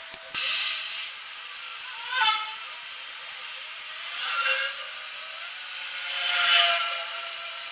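A small power tool's motor running in several swells, its pitch rising and falling as it speeds up and slows, about four times.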